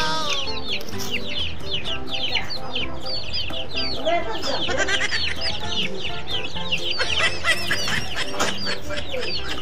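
A group of young chickens (chicks) peeping constantly, a rapid stream of short, high, falling cheeps, over background music.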